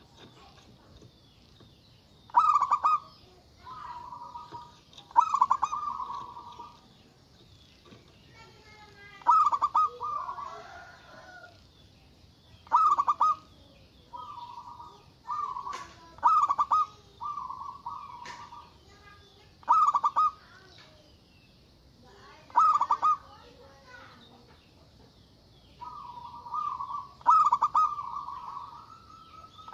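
Zebra dove (perkutut) cooing: about ten short phrases of rapid pulsed coos at one steady pitch, each starting loudest, repeated every two to three seconds. Faint high chirping runs underneath.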